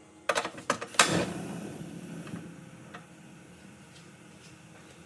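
Kitchenware clattering: a few light clicks, then one loud clank about a second in that rings away, as the seasoned chicken is handled to go into the steamer.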